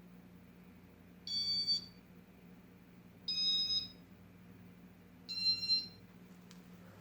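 Three electronic beeps, each about half a second long, evenly spaced two seconds apart, over a steady low hum.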